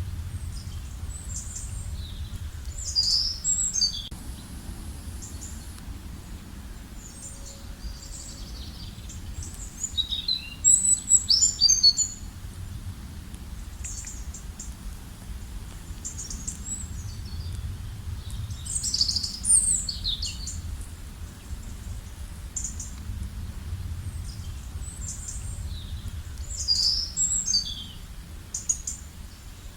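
Songbirds chirping and singing in quick high phrases, with louder bursts of song every several seconds, over a low steady rumble.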